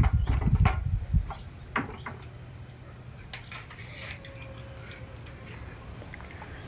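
Ringneck parrot making a few short clicks and chirps in the first two seconds, over some low thumps in the first second. After that only a faint, steady high-pitched whine remains.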